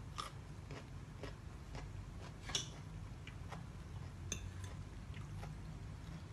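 A person eating and chewing, with scattered wet mouth clicks and smacks, the loudest about two and a half seconds in, over a low steady hum.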